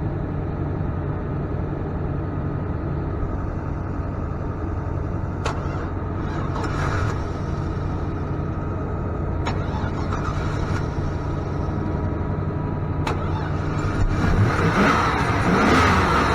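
Engine running steadily, with three sharp clicks, then about fourteen seconds in a louder, rougher surge of engine noise as a jump-start is tried on a 2002 Chevy 1500 pickup that won't stay running.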